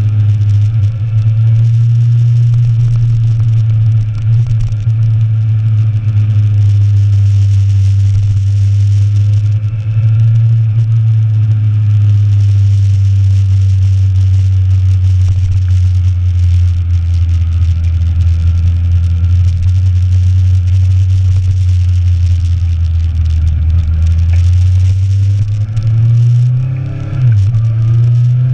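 Motorcycle engine running at a steady cruise, heard on board. The engine note sinks slowly through the middle, then rises near the end with a brief drop and pickup.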